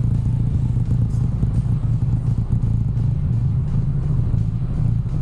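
Genuine Buddy 170i scooter's single-cylinder engine running steadily under way, with a low rumble of wind and road noise.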